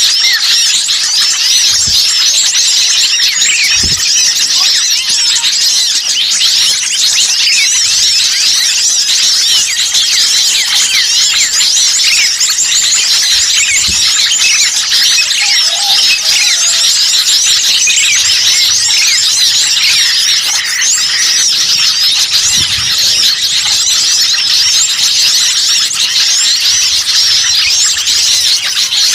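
Dense, unbroken chorus of many small songbirds chirping and twittering over one another in rapid, high-pitched calls: a noisy small-bird lure recording made to draw wild birds in.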